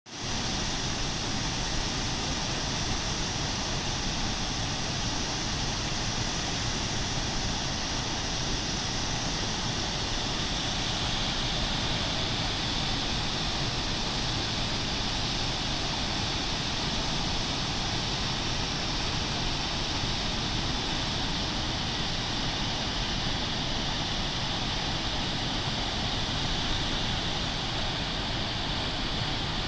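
Harajiri Falls, a waterfall, with a steady, unbroken rush of falling water.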